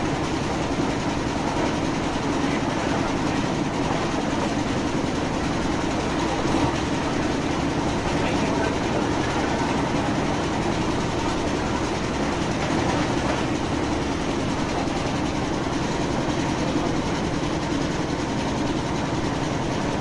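Passenger train running steadily through a coach: an even rumble and rush of wheels on rails, without a clear beat of rail joints.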